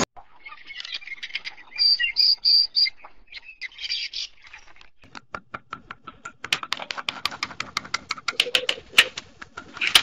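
A sandpiper's soft, high 'peep' calls, a few louder peeps among them, for about the first five seconds, then a rail's rapid, repetitive series of sharp 'kek' notes, several a second.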